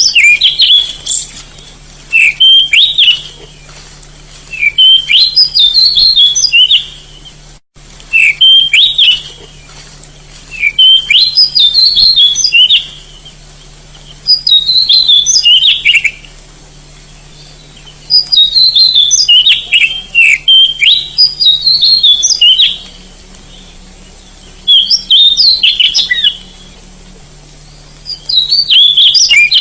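Oriental magpie-robin (kacer) singing loud, repeated phrases of quick, high whistled notes. There are about ten phrases, each a second or two long, with short pauses between them.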